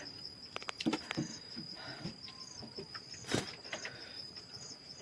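Insects calling: a steady high-pitched trill with soft pulsing chirps above it about twice a second. A few light clicks, and one sharper knock about three and a half seconds in.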